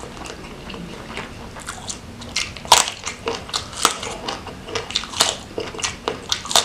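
Close-miked crisp crunching of a raw round green eggplant being bitten and chewed: soft mouth sounds at first, then from about two and a half seconds in a loud first crunch and repeated crunches about twice a second.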